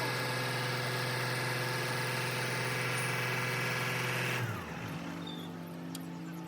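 An engine running steadily, then cutting out about four seconds in with a brief falling pitch, leaving a quieter, lower steady hum underneath.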